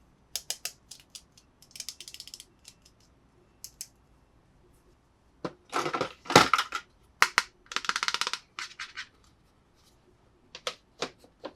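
Hands unpacking a toy playset: scattered sharp clicks and taps, with a few short bursts of packaging rustle, busiest and loudest midway through.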